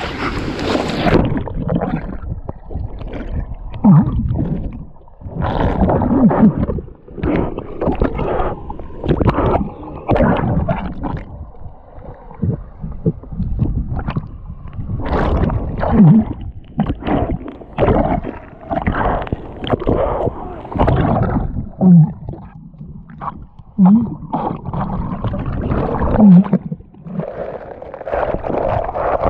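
Muffled, irregular splashing and gurgling of water around a mouth-mounted GoPro as a swimmer strokes through a cold plunge pool, with short low grunts of breath now and then. The sound turns dull about a second in, as the camera dips to the water.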